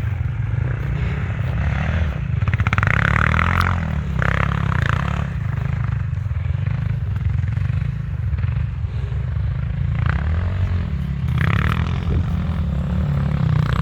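Off-road enduro motorcycle engine running close by, revving up and easing off in surges, with two louder bursts of throttle, the first about a third of the way in and the second near the end.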